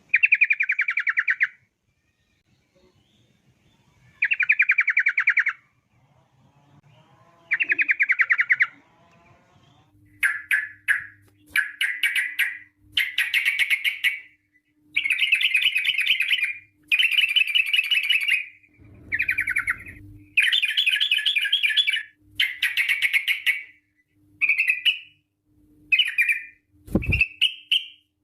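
Yellow-vented bulbul (trucukan) singing its rapid rolling trill song in phrases of a second or two: three phrases with long gaps at first, then phrases coming one after another from about ten seconds in. A short low thump near the end.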